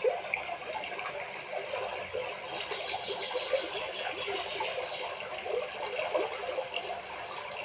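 Aquarium water bubbling and trickling steadily, with many small irregular pops.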